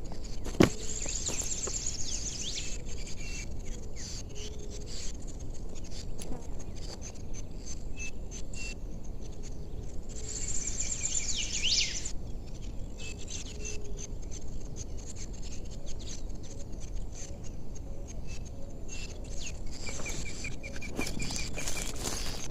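Forest ambience: insects buzzing in two high, trilled bursts and birds chirping in short notes, with a run of quick repeated notes near the end, over steady low background noise and scattered small clicks.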